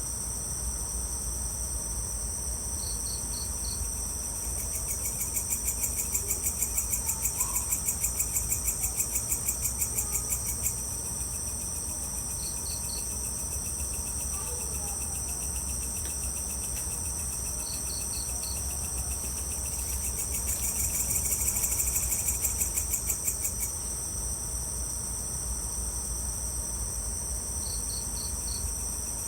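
Evening chorus of crickets and other insects: a steady high shrilling with a rapidly pulsing trill that swells twice and fades, and a short burst of four quick chirps repeating every several seconds. A steady low rumble runs underneath.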